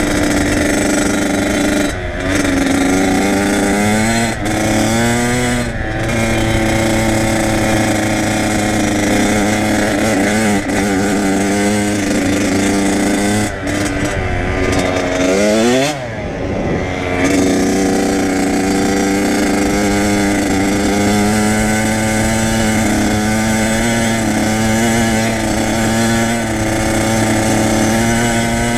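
Kawasaki KX100 dirt bike's two-stroke single-cylinder engine running under way. Its pitch drops and climbs again a few times in the first six seconds as it shifts up through the gears. About sixteen seconds in it falls away off the throttle and revs back up, then holds fairly steady.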